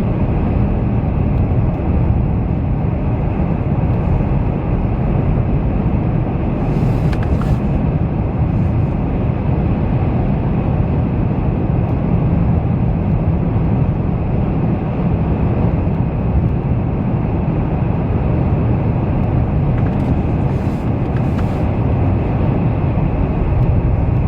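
Steady low rumble of a car driving on a highway, heard from inside the cabin: engine and tyre noise with no break.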